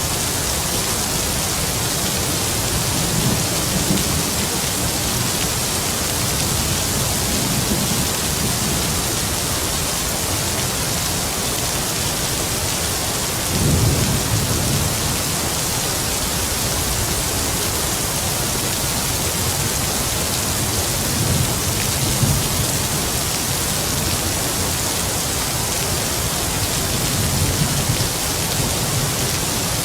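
Heavy rain falling steadily, with distant thunder rumbling low four times, the loudest rumble just before halfway.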